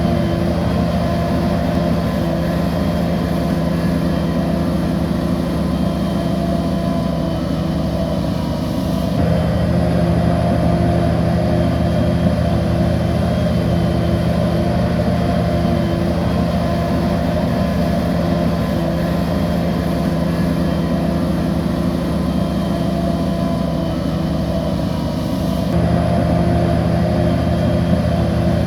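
Bulldozer diesel engine running steadily under work, its note shifting abruptly about nine seconds in and again near the end.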